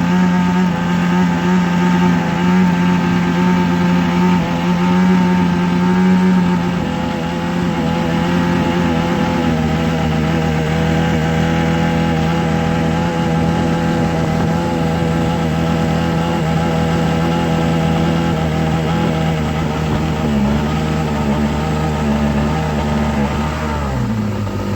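A steady motor hum with a strong low drone and many overtones. It shifts to a slightly lower, quieter setting about six seconds in and glides down in pitch near the end, as if slowing.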